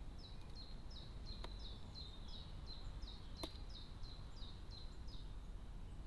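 A bird calling: a regular series of short, high notes, each sliding down in pitch, about three a second, stopping near the end. Two sharp clicks come about two seconds apart over a steady low rumble.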